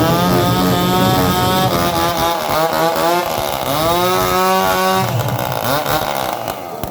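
An engine revving up and down several times, its pitch rising and falling in long glides.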